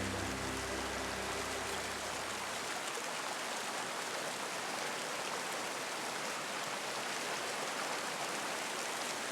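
Waterfall rushing, a steady even noise of falling water. Music fades out over the first couple of seconds.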